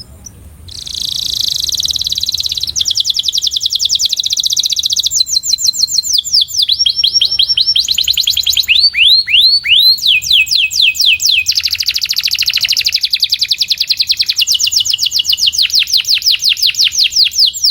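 Canary singing one long, unbroken song of rapid trills, starting about a second in; the rolls change pace several times, with a run of slower, falling notes midway before a long fast trill.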